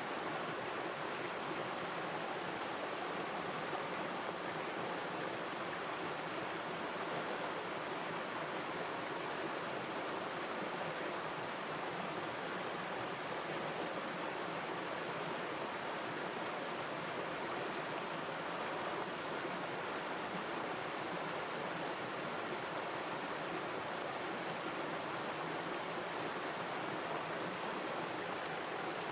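River stream water flowing steadily: an even, unbroken rushing wash with no breaks or separate events.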